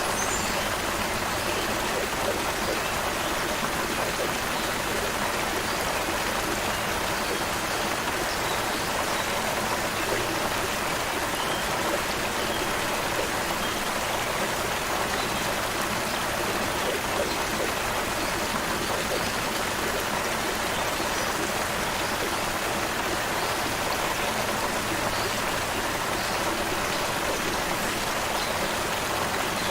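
Stream water flowing steadily in an even, unbroken rush.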